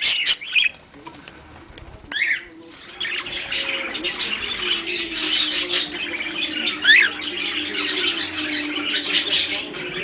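Pet budgerigars chirping and squawking, then breaking into dense, continuous warbling chatter from about three seconds in, with one sharp up-and-down call near seven seconds. A low steady hum runs underneath the chatter.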